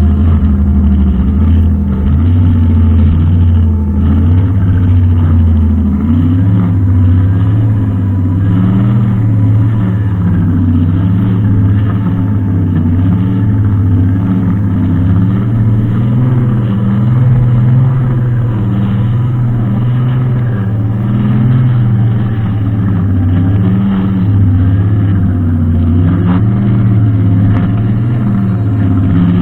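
Brushcutter engine running steadily under load. Its pitch steps up slightly about six seconds in and wavers a little.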